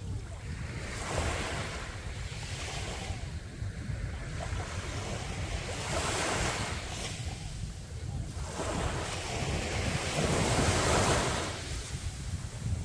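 Sea waves breaking on a beach in repeated surges, one every four or five seconds, the biggest near the end. Wind rumbles on the microphone underneath.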